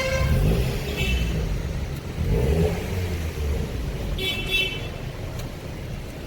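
Mazda Miata (MX-5) convertibles driving past in a slow line, with a low engine and exhaust rumble that swells in the middle. A few short high-pitched car-horn toots sound near the start, about a second in, and again after about four seconds.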